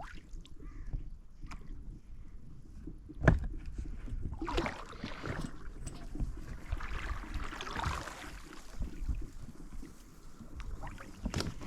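Water splashing and lapping around a small PVC inflatable boat, with a low rumble and scattered light knocks. One sharp knock about three seconds in is the loudest sound.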